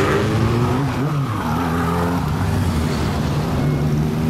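Classic car engine revving briefly about a second in, then running steadily at low revs.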